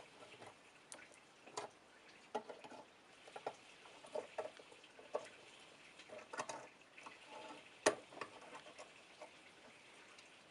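Light, irregular clicks and taps of small parts and tools being handled while an old mechanical scale is taken apart, with one sharper click near the end.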